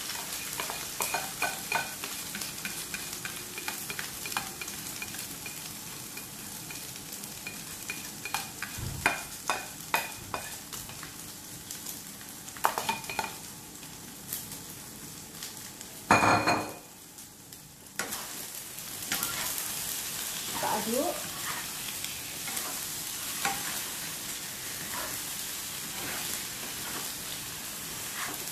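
Beaten egg and tofu cubes sizzling in hot oil in a non-stick wok, with scattered clicks and scrapes of a spatula against the pan as it is stirred. A louder knock comes about 16 seconds in, after which the sizzle drops away for a couple of seconds.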